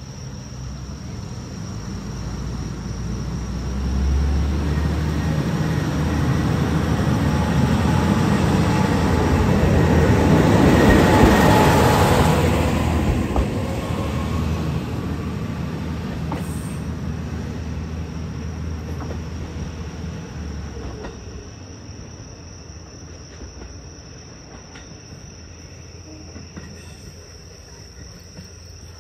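Shimabara Railway single-car diesel railcar running past close by. Its engine and wheel noise grows to a peak about 11 seconds in with a faint wheel squeal, then fades as it moves away.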